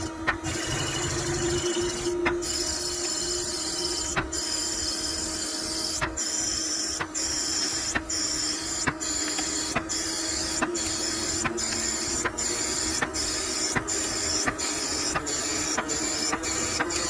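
CNC machine running with a steady hum and hiss. The sound drops out for an instant with a click about once a second, and more often near the end.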